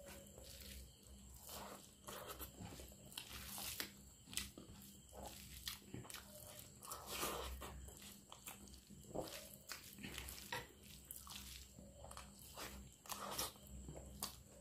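Close, wet mouth sounds of a person eating rice mixed with dal by hand: irregular chewing, lip smacks and short clicks, with soft squelches of fingers mashing the rice into the dal.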